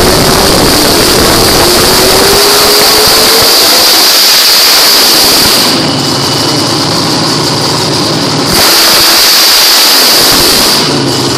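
A drag car's V8 engine revved very loud, its pitch climbing slowly for the first few seconds; it falls back about six seconds in, is revved up again about two and a half seconds later, and drops back near the end.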